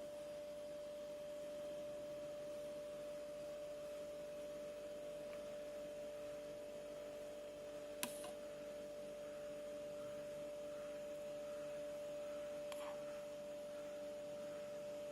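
A steady electrical hum on one held tone with weaker tones beneath it, and a single sharp click about halfway through.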